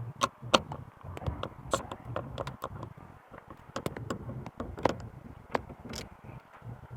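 Irregular clicks and light knocks of hard plastic parts being handled as a washing machine drain pump is pulled apart by hand.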